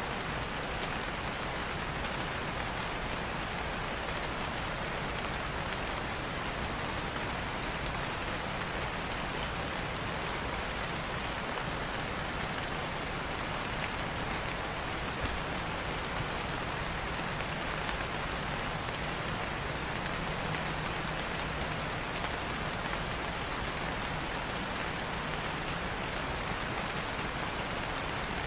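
Steady rain falling on foliage, an even hiss with no let-up. A brief run of a few very high, short chirps comes about two to three seconds in.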